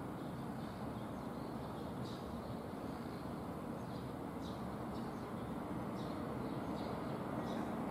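Distant rumble of a freight train, an EF66 electric locomotive hauling container wagons, approaching slowly and growing a little louder toward the end. A few faint, short high chirps come through over it.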